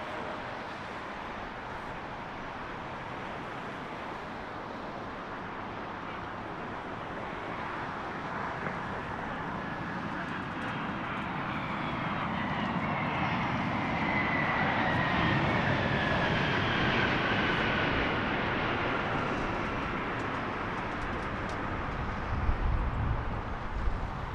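Airbus A300F4-622R freighter's turbofan engines passing close on its landing approach: the jet noise swells, with a whine falling in pitch as the aircraft goes by, then eases off. Low rumbling gusts come near the end.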